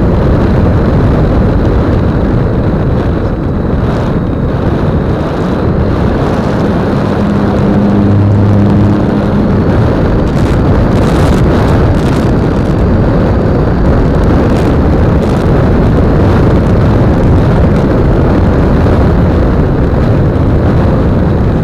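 Air rushing over the microphone of a keychain camera riding on an electric RC trainer plane in flight, a steady loud rush with a faint high whine from the motor and propeller. A short low hum sounds about seven to nine seconds in.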